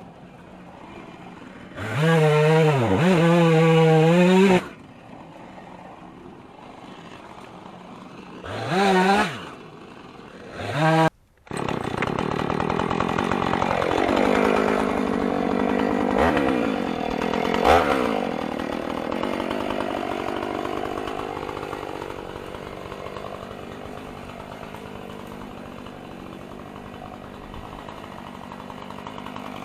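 Two-stroke chainsaw revved in short bursts, idling quietly in between. About eleven seconds in, the sound cuts out abruptly. It gives way to a steadier engine drone with a few falling pitch sweeps that slowly fades.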